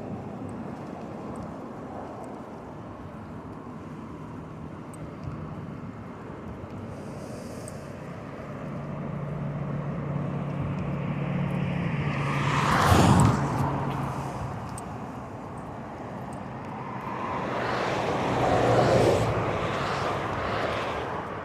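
Motor traffic passing on the road beside the bike. One vehicle builds up and goes by about halfway through, its pitch dropping as it passes. A second, quieter one goes by a few seconds before the end, over steady road and wind noise.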